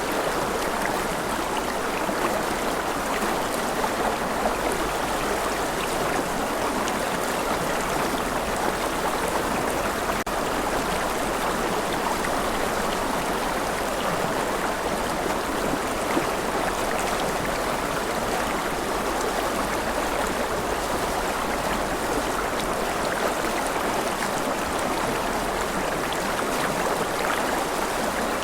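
Steady, even rush of water with a fine pattering of drop-like ticks, unchanging in level.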